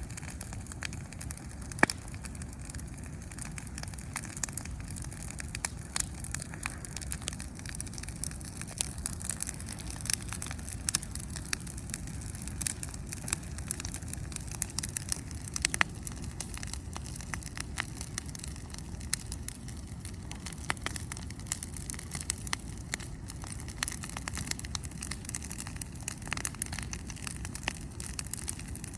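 Wood bonfire crackling, with sharp pops scattered throughout (the loudest about two seconds in) over a steady low rumble.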